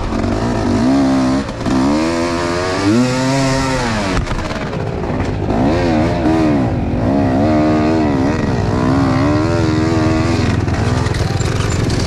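Enduro motorcycle engine revving up and down again and again as the throttle is worked.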